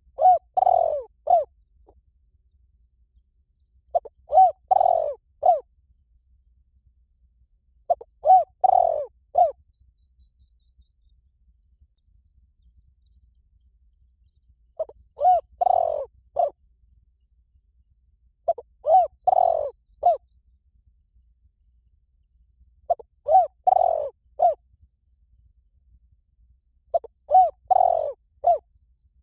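Spotted dove cooing: a short phrase of three or four low coos, the middle one the longest, repeated seven times about every four seconds.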